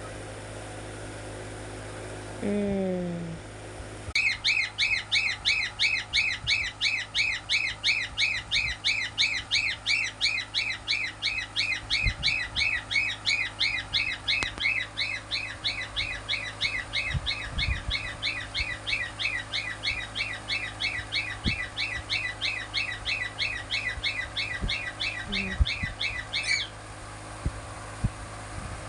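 Cockatiel chirping over and over in a fast, even series of short downward-sliding chirps, about three a second. It starts a few seconds in and stops abruptly near the end.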